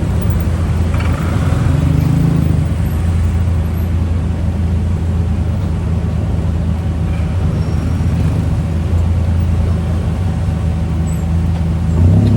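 Steady low rumble and road noise of a moving car in traffic.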